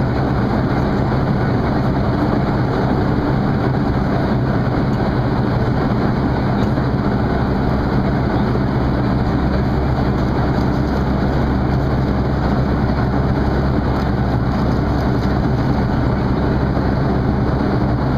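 Boeing 737-300 cabin noise in flight: the steady drone of the CFM56 jet engines and the rush of airflow past the fuselage, with a constant low hum.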